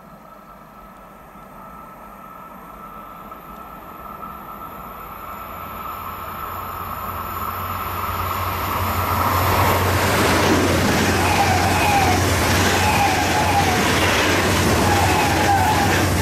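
ICE high-speed electric train approaching fast and passing close by: its rush swells steadily for about ten seconds, then holds loud and steady with a wavering high whine as the cars go past.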